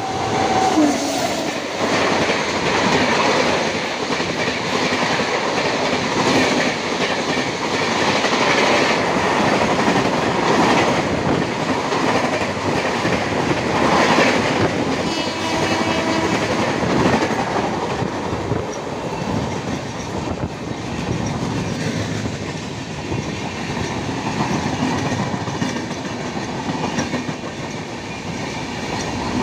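Express train of red LHB coaches behind an electric locomotive passing close by at speed: a continuous loud rush of wheel and air noise with rapid clickety-clack of the wheels over rail joints.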